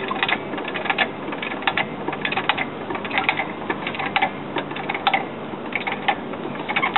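Car jack being worked to lift the car: a steady run of irregular metallic clicks and ratcheting, several each second.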